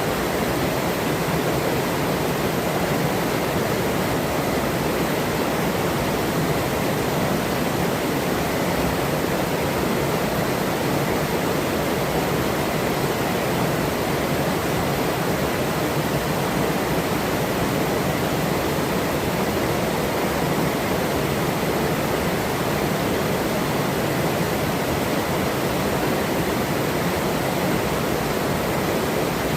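River water running with a steady, even rush, with a faint steady high tone above it.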